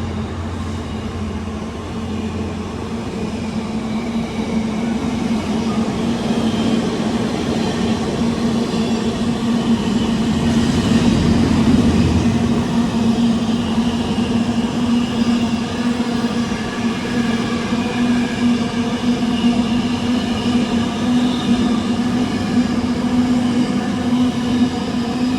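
Diesel-hauled freight train led by a Class 66 locomotive moving through the station, its engine giving a steady drone. It grows louder toward the middle and stays loud to the end.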